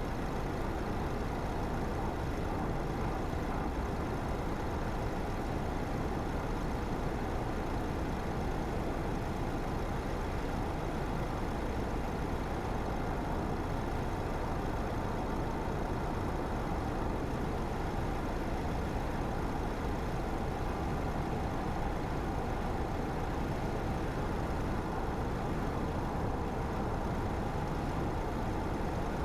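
Car driving steadily along a road: an even hum of engine and tyre noise that does not change.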